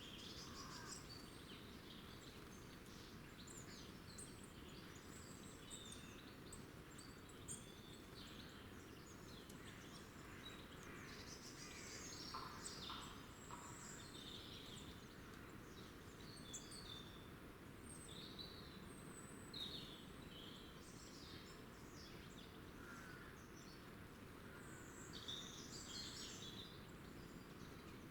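Faint chirps and short calls of several small songbirds, coming in scattered clusters, over steady low background noise.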